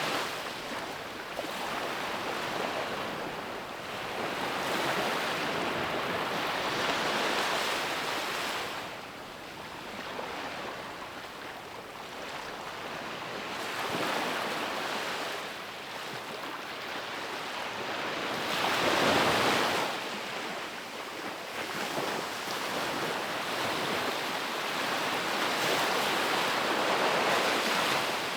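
Ocean waves breaking and washing on a beach, the surf swelling and ebbing every few seconds, with one louder wave about two-thirds of the way through.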